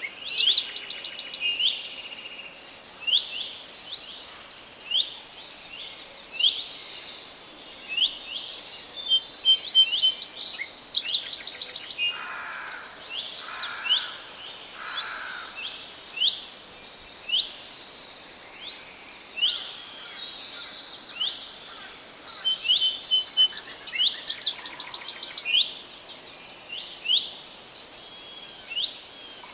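Forest songbirds chirping and singing, many quick overlapping notes and trills. Three lower calls come one after another about twelve to sixteen seconds in.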